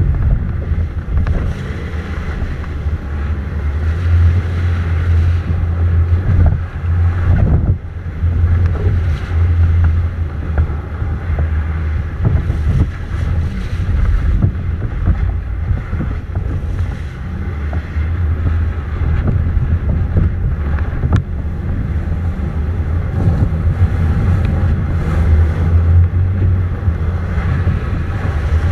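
Wind buffeting the microphone: a loud, steady, fluttering rumble with a windy hiss above it.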